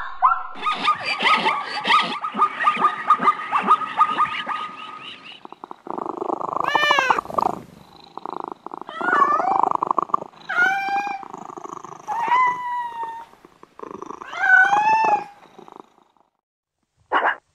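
Domestic cat meowing: five drawn-out meows, each rising and then falling in pitch, from about six seconds in. Before that comes a few seconds of rapid, clicking, rhythmic calls.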